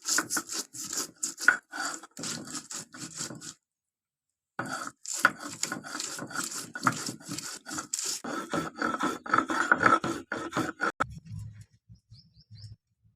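Fast, rhythmic back-and-forth scraping strokes by hand on a hard surface, in two long runs with a short break between them; they stop about two seconds before the end, leaving a few faint knocks.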